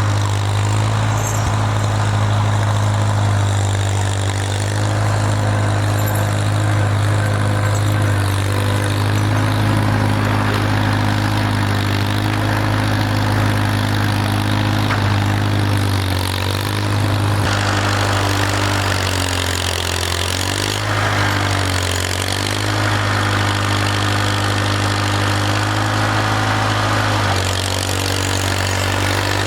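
Old Farmall tractor engine running steadily while pushing snow, its pitch sagging and recovering a few times as it takes load, from about halfway through.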